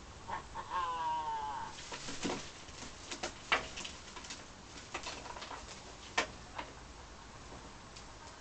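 Blue-and-gold macaw calling: a wavering, drawn-out call about a second in, followed by scattered short, sharp clicks and chirps.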